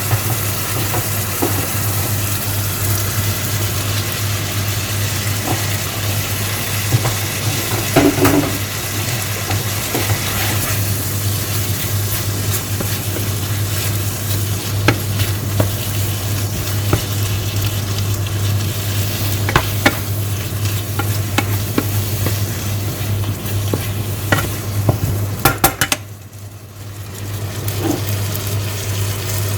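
Seasoned chicken sizzling in a frying pan, with a utensil clicking against the pan now and then as it is stirred. A steady low hum runs underneath. The sizzle drops away for about a second a few seconds before the end, then comes back.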